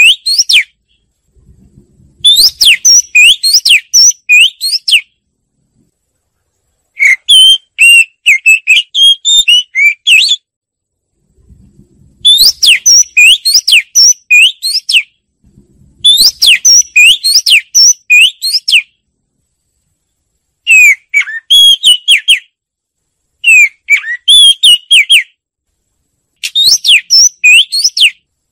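Oriental magpie-robin singing: about seven phrases of quick, sweeping whistled notes, each two to three seconds long, separated by short silent gaps.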